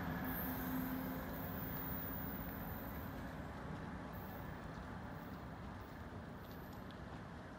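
A New Jersey Transit electric train running away down the track, its rumble fading steadily. A steady hum drops out about two and a half seconds in.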